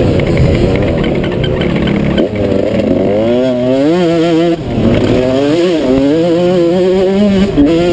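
Motocross dirt bike engine revving hard, its pitch climbing and falling repeatedly as the rider opens and closes the throttle, with a sharp drop about halfway through and another rise near the end.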